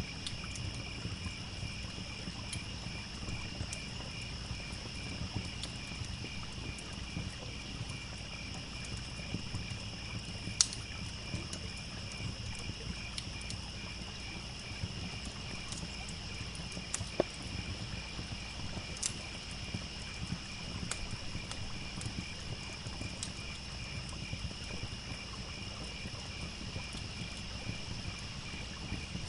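Crickets chirping in a steady, evenly pulsing chorus, with scattered sharp crackles and pops from a campfire, a few louder pops among them, over a low rumble.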